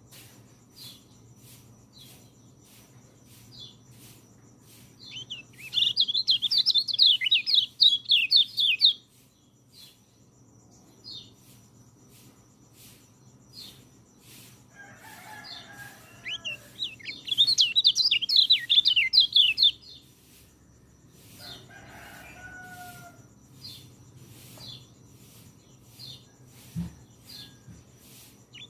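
Peleci songbird singing: two loud, fast warbling song phrases of about three seconds each, roughly ten seconds apart, with faint short chirps in between. Lower-pitched calls come twice in the gaps, and a low hum runs underneath.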